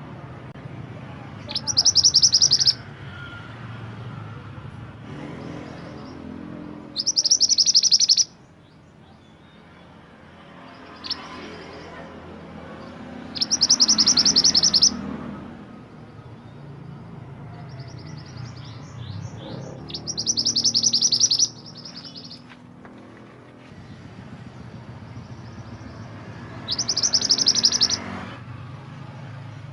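Mantenan gunung songbird singing. It repeats a loud, fast, high trill about a second long five times, roughly every six seconds, with softer short chirps in between.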